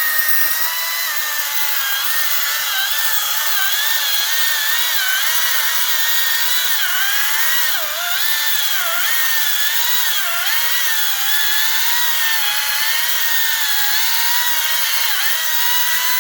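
Echo battery-powered electric chainsaw running flat out through a long cut into a tree, a high steady whine whose pitch dips several times around the middle as the chain bogs in the wood.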